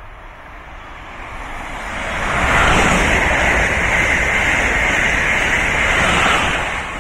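Amtrak Acela Express high-speed electric trainset passing at speed. The rush of wheels and air builds over the first two seconds and stays loud with a high, steady whine while the cars go by. It falls off near the end as the rear power car passes.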